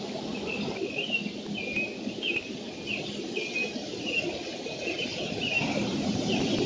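A bird giving a series of short, high chirps, about two a second, over a steady rushing background noise.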